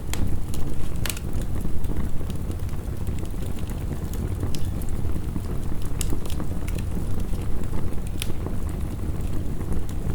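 Crackling wood fire with scattered sharp pops, the clearest about a second in, again after four and six seconds and near eight, over a steady low rushing of heavy rain.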